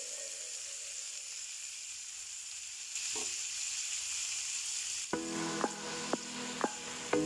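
Pork chops sizzling in a stovetop grill pan as they are turned with metal tongs. Background music with a regular beat comes in about five seconds in.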